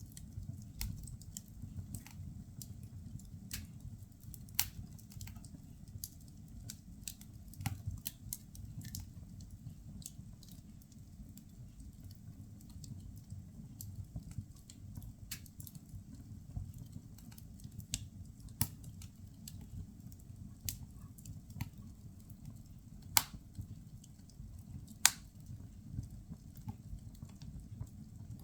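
Wood fire burning in a fireplace: a steady low rumble of the flames with irregular sharp crackles and pops from the burning firewood, two of them louder near the end.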